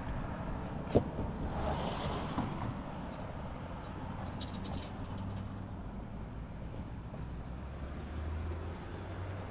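Street ambience with a motor vehicle engine running low and steady, a single sharp knock about a second in, and a brief hiss around two seconds.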